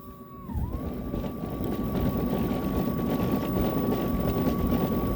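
Toro PowerMax E24 60V electric two-stage snowblower spinning up about half a second in and then running steadily on its low (eco) speed: a steady motor whine over the churn of the auger and impeller. The owner calls this how it's supposed to sound.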